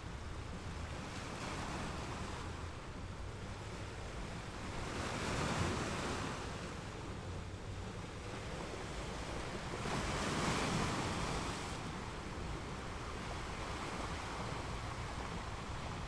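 Ocean surf, waves breaking and washing over a steady rush of water. Two waves swell and fade, about five and ten seconds in.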